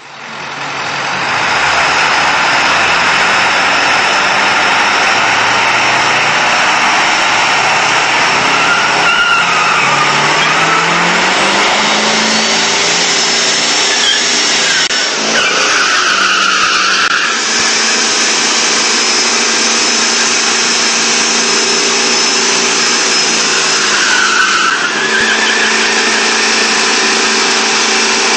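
A 1997 Ford F-350's 7.3-litre Power Stroke turbodiesel V8 running loud under hard acceleration at the drag strip, its pitch climbing over the first dozen seconds. The sound changes about 15 and 24 seconds in.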